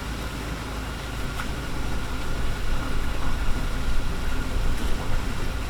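Steady low rumble with a few sharp crackles from a wood fire burning in a Picogrill brazier; the rumble grows a little louder about two seconds in.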